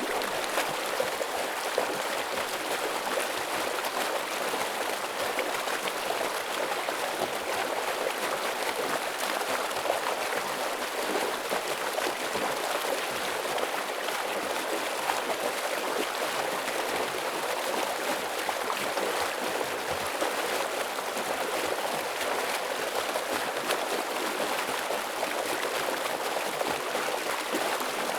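Stream water rushing and splashing over rocks, a steady dense hiss that does not change.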